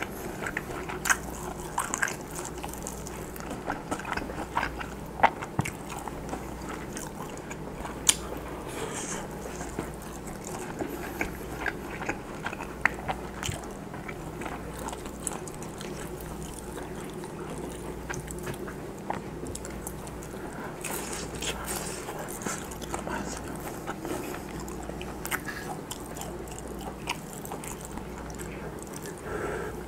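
Mouth sounds of someone chewing pan-fried Spam slices and rice, with irregular sharp clicks and smacks, busiest in the first dozen seconds and sparser after. A steady low hum runs underneath.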